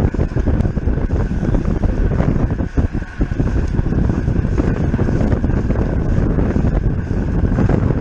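Wind buffeting the microphone of a camera on a road bike moving at race speed: a loud, steady rumble that dips briefly about three seconds in.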